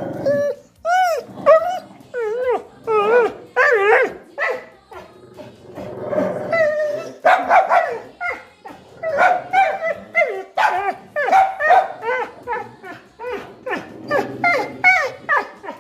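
Dog whining and yowling in a long run of short cries that rise and fall in pitch, like talking. This is the attention-seeking vocalizing of a dog jealous of another dog.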